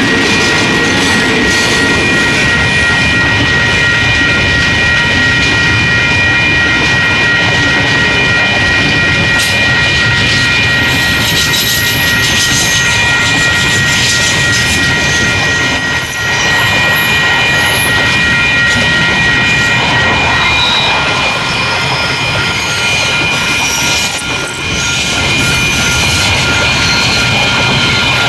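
Freight train hauled by KiwiRail EF-class electric locomotives running steadily, a continuous drone with a constant high whine over it. The sound dips briefly twice in the second half.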